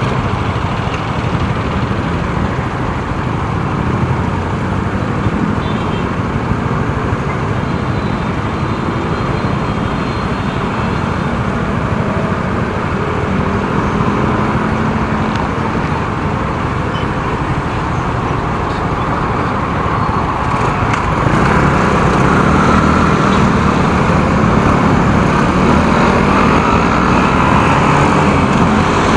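Motorcycle being ridden through road traffic: a steady engine rumble mixed with road and traffic noise, which gets louder about two-thirds of the way through.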